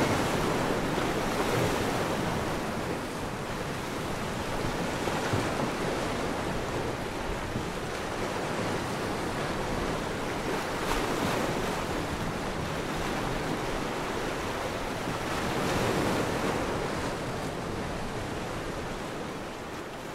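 Sea waves washing continuously, a steady rushing wash that swells and eases slowly and begins to fade out at the very end.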